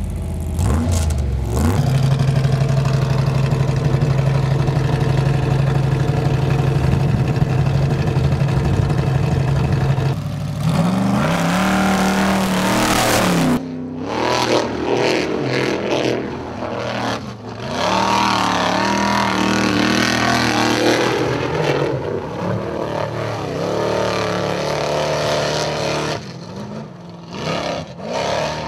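Formula Offroad 4x4 engine held at high, steady revs for about ten seconds, then revving higher. After a sudden cut, the buggy's engine revs up and down hard under load as it climbs a steep dirt slope.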